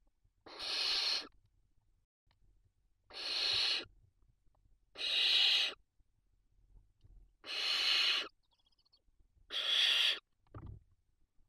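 Barn owl chicks giving rasping, hiss-like calls: five separate calls, each under a second, about every two seconds.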